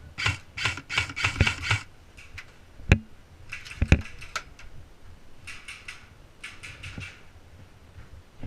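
Airsoft guns firing: short rapid bursts of clicking shots, with two single sharp cracks about three and four seconds in.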